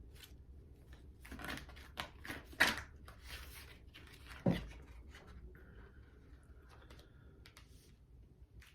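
Tarot cards being handled: a run of short papery rustles and clicks, then a soft thump about four and a half seconds in, followed by a few faint clicks.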